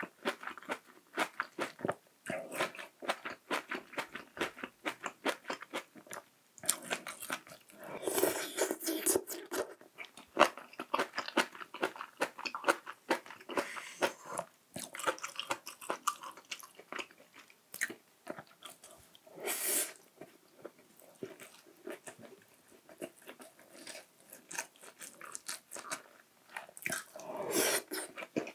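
Close-miked chewing and crunching of food in quick, irregular bites, broken by a few longer, breathier sounds about 8 seconds in, near 20 seconds and near the end.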